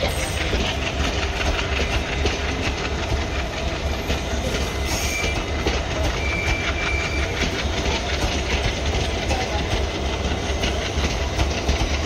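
Indian Railways passenger coaches rolling past on the track: a steady heavy rumble with the rhythmic clickety-clack of wheels over rail joints. A couple of brief high-pitched squeals come through around the middle.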